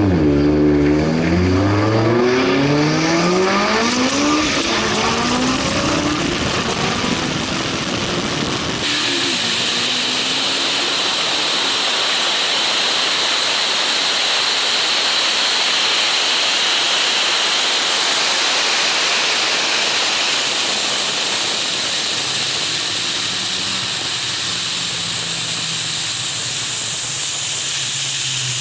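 A turbocharged Mitsubishi Evo X running at full throttle from a roll, its engine pitch rising steeply over the first few seconds. From about nine seconds in, a loud, steady rush of wind noise takes over, and the low engine tone comes back near the end.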